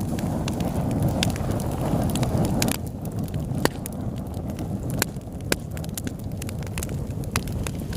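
Fire burning in a fireplace: a low rumble of flames with sharp crackles and pops scattered irregularly throughout. The rumble eases a little about three seconds in.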